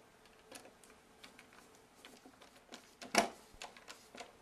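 Small clicks and ticks of a screwdriver driving small mounting screws into a surface-mount light fixture, with one sharper, louder click about three seconds in.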